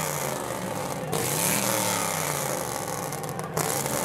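A car engine revving hard, its pitch climbing and falling over loud, continuous noise. The sound gets abruptly louder about a second in and again near the end.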